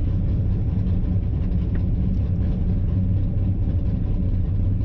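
Chevy S10's swapped 5.3-litre V8 with a BTR truck cam idling steadily. It is running on all eight cylinders now that the misfire, from a fouled plug and a loose plug wire, has been fixed.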